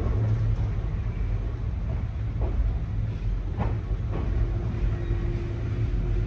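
Nankai 2200-series train running, heard from inside the passenger car: a steady low rumble of wheels on rail, with a couple of short knocks near the middle and a faint steady tone joining a little past halfway.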